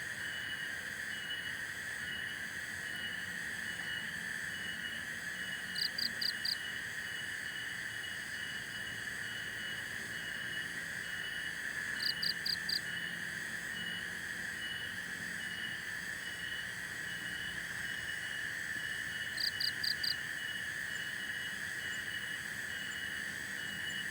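Steady night chorus of insects: a continuous shrill drone with a faster pulsing trill above it. About every six seconds a call of four quick, high chirps stands out above the chorus, three times in all.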